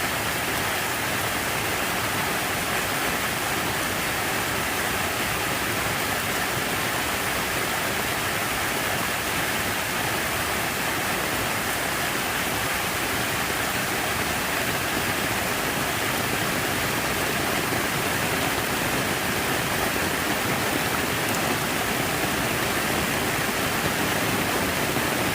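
Steady rush of running water from a water feature: an even, unbroken hiss.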